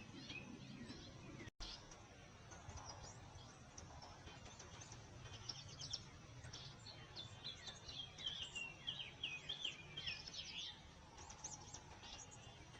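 Small songbirds chirping and calling, with a quick run of short, falling chirps from about six to ten and a half seconds in, over a faint steady low background hum. The sound cuts out for an instant about a second and a half in.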